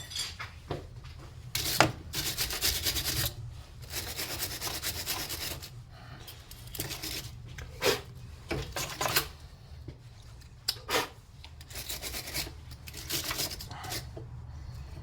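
Hand file scraping a damaged lead battery terminal post in repeated runs of strokes, with a few sharp knocks between them, as the corroded post is filed back to a clean edge.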